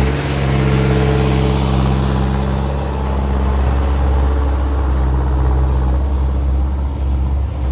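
Heavy vehicle engine running steadily with an even low drone.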